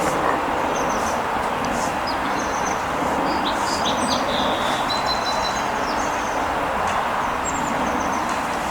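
Steady rushing background noise with small birds chirping in short high notes throughout.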